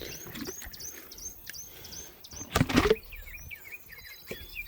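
Young brooder chicks and turkey poults peeping continuously, a quick run of short, high, falling cheeps. A short loud clatter about two and a half seconds in.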